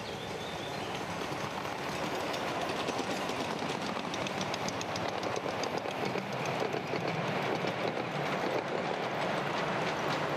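Miniature railway train running along the track, its wheels clicking over the rail joints in a quick, regular rhythm; it grows louder over the first few seconds.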